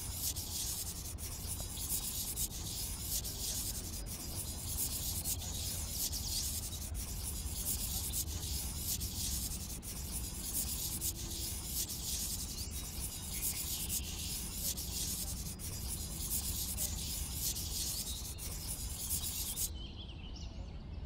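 Marker drawing lines: a steady, scratchy rubbing of the felt tip across the drawing surface, which stops near the end.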